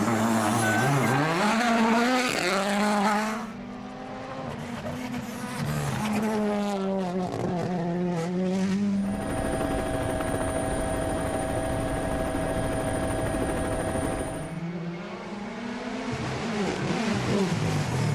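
Rally car engines revving hard, their pitch climbing and dropping again and again through gear changes as the cars race past. In the middle there is a steady, even tone for about five seconds before the revving resumes.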